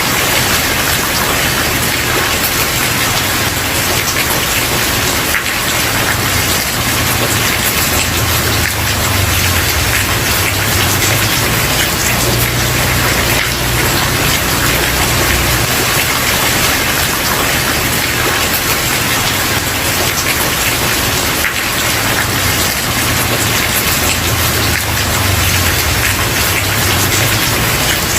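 Steady rain falling on a wooden porch, dense drops pattering with a low rumble that swells and fades.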